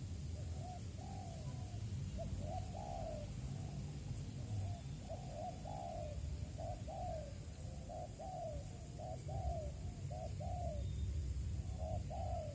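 Spotted doves cooing: a steady run of short, arched coo notes, repeated over and over, over a continuous low rumble.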